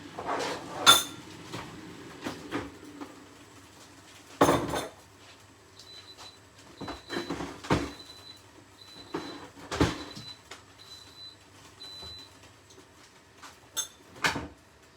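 Kitchen clatter of pans and utensils being knocked, clinked and set down, with an air fryer's timer beeping repeatedly in short high beeps through the middle, signalling that its cooking time is up.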